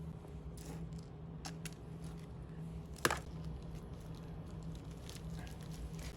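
Oak wood fire crackling, with scattered small pops and one sharp crack about three seconds in, over a steady low hum.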